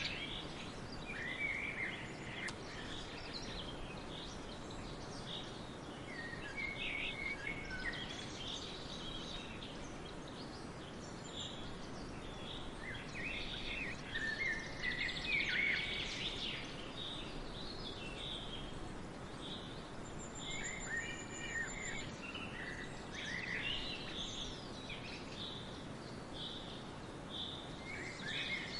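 Woodland ambience: several birds singing and chirping at once, short whistled phrases and rapid twittering over a steady background hiss, with a brief high trill about two-thirds of the way through.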